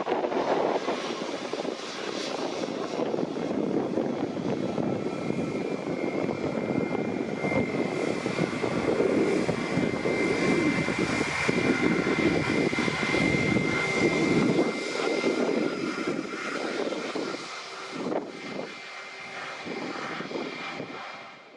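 Airbus A320 jet's IAE V2500 turbofan engines at taxi power: a steady rumble with a thin high whine that grows strongest around the middle, then fades over the last few seconds.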